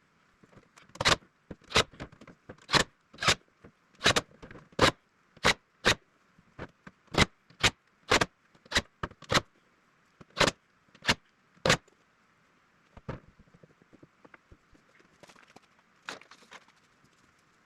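A series of sharp knocks or strikes, irregular at about one or two a second, which stop about twelve seconds in, leaving only faint scattered clicks.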